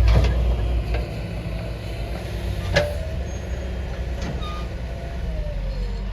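Heavy diesel engine running steadily at a soil-loading site, with three sharp knocks: one at the start, one near the middle and one about two-thirds through.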